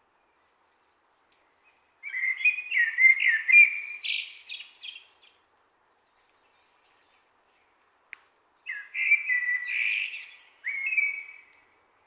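A bird singing two phrases of quick, varied warbling notes with a silent gap between them. The first phrase starts about two seconds in and the second comes near the end.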